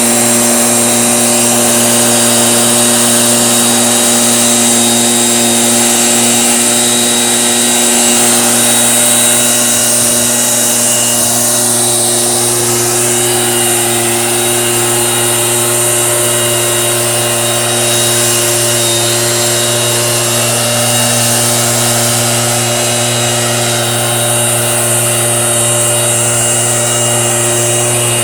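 Small engine of a motorized fertilizer sprayer running at a steady, constant speed while pumping spray.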